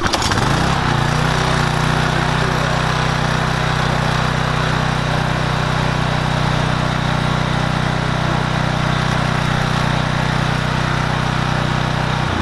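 Briggs & Stratton engine on a Troy-Bilt pressure washer starting at once and speeding up over about a second, then running steadily. It runs now that its clogged main jet has been cleaned out.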